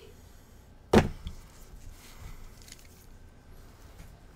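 One sharp knock about a second in, like a hard object set down on a workbench, with a lighter tap just after it and faint handling noise around them.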